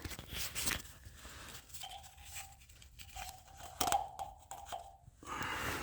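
Soft tearing and rustling as a new carburetor gasket is handled during a generator carburetor swap, with a few sharp clicks, the sharpest about four seconds in.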